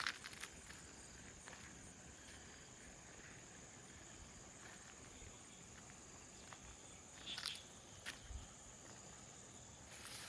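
Steady high-pitched drone of insects, with a few scattered crunchy footsteps on the ground: one near the start, a couple between about seven and eight seconds in, and one near the end.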